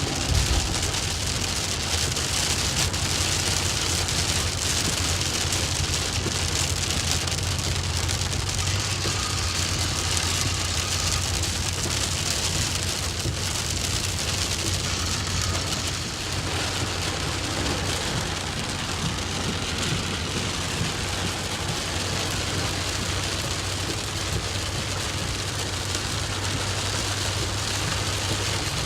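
Steady heavy rain falling and pattering on surfaces, with a steady low hum underneath.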